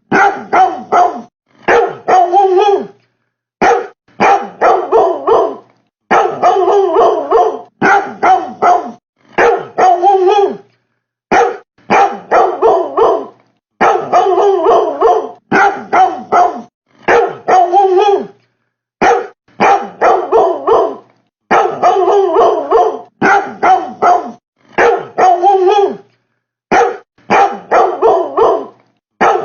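Dog barking in quick runs of several barks, each run broken off by a short, completely silent gap; the same sequence of barks seems to repeat every eight seconds or so, like a looped recording.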